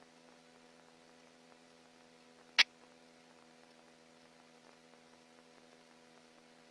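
Low steady electrical hum of the police radio audio between transmissions, with one sharp click about two and a half seconds in.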